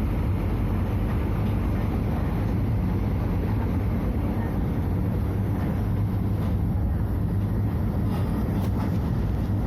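Scania F250HB bus's DC09 five-cylinder diesel engine running steadily with the bus under way. It is a constant low drone with no rise or fall in pitch.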